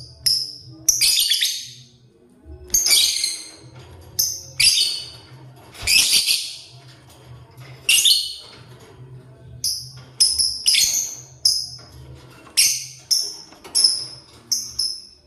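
Lovebird calling: a quick string of short, high-pitched chirps, a few of them longer, harsher screeches.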